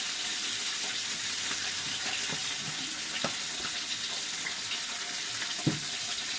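Fish frying in hot oil: a steady sizzle with scattered small pops, and one louder knock a little before the end.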